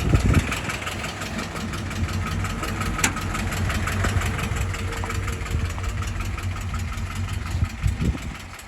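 1957 Willys CJ-5 Jeep's F-head four-cylinder engine, fitted with a Solex carburetor, idling steadily with an even, fast firing pulse.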